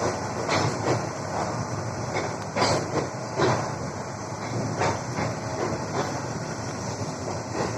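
Train running along the track: a steady rumble with irregular clacks and knocks from the wheels and carriages.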